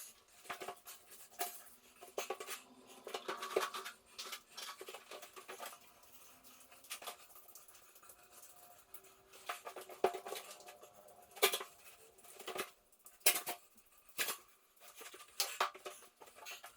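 Irregular scraping and sharp clicks of metal hand tools working fresh wall plaster, in short uneven strokes.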